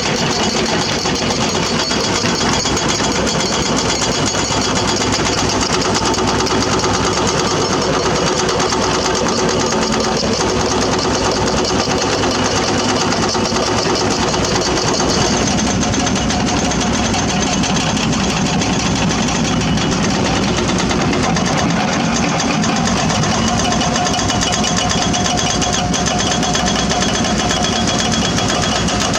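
Excavator's diesel engine running steadily. About halfway through, the sound gets heavier in the lower range and a steady mid-pitched tone comes in.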